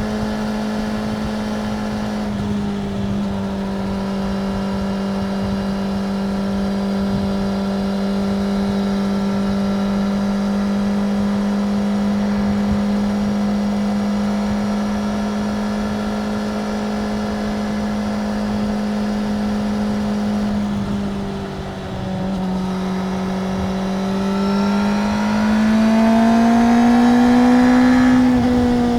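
Suzuki GSX-R750's inline-four engine running at steady revs. The revs dip briefly about three-quarters of the way through, then climb for a few seconds and ease back near the end.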